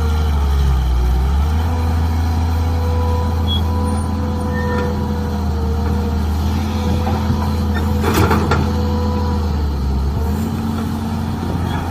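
Mini excavator's small diesel engine running steadily with a high hydraulic whine over it. The pitch dips briefly about a second in, and a short clatter comes a little after eight seconds.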